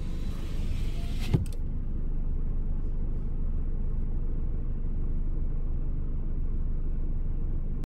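Car engine idling, a steady low rumble heard from inside the cabin, with one short click about a second and a half in.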